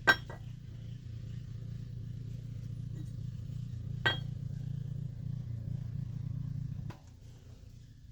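Two sharp metallic clinks with a short ring, one at the start and one about four seconds in, as steel supercharger parts or tools are set down or knocked together, over a steady low hum that cuts off about seven seconds in.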